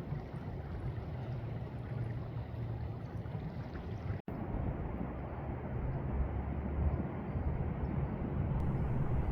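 Steady low rumble of wind on the microphone outdoors, with a brief dropout to silence about four seconds in.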